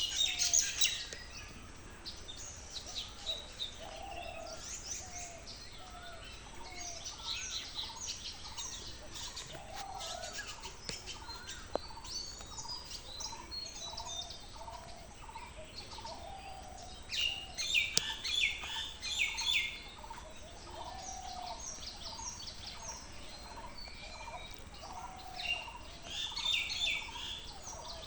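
Several birds calling: a short, low call repeats about once a second under bursts of high, rapid chirping, which are loudest in clusters about two thirds of the way through and near the end.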